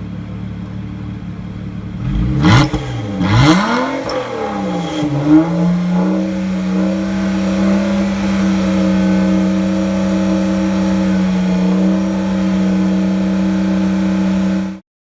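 Car engine idling through a Komo-Tec aftermarket exhaust, blipped through a few quick revs a couple of seconds in, then settling back to a steady idle. The sound cuts off suddenly near the end.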